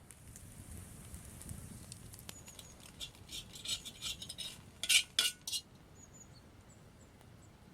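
Metal utensil clinking and scraping against cookware, as in stirring, with three sharp clinks about five seconds in.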